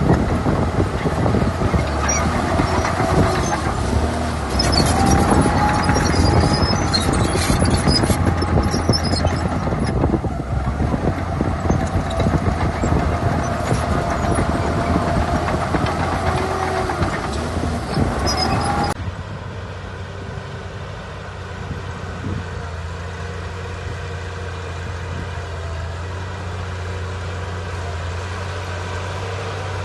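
Heavy diesel earthmoving machinery working: an engine running under load with dense clanking and a wavering metallic squeal. About two-thirds of the way through it cuts abruptly to a quieter, steady low engine hum.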